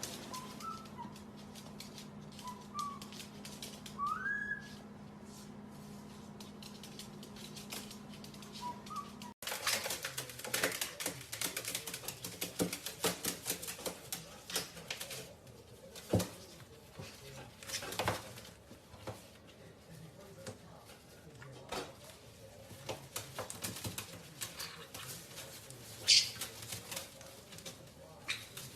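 Parrot giving a few soft chirps and a short rising whistle over a steady low hum. Then, after a cut, a run of sharp clicks and taps, with one brief high squeak near the end.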